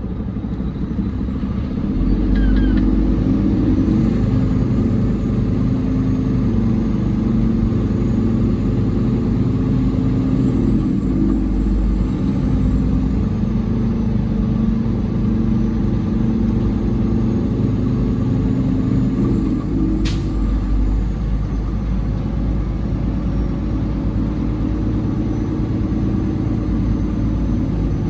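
Peterbilt 389 big-rig diesel engine running as the truck moves, getting louder about two seconds in and rising and falling in speed a few times. A brief sharp sound cuts through about twenty seconds in.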